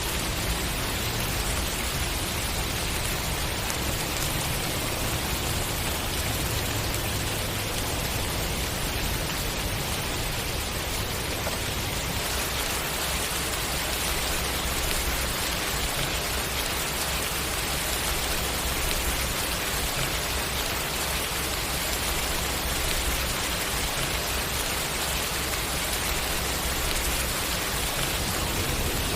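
Steady rainfall, an even hiss of rain pattering on surfaces with a low rumble underneath that shifts slightly about twelve seconds in.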